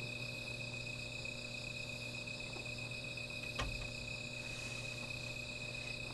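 Crickets trilling steadily at night, with a single sharp crackle from a small fire about three and a half seconds in.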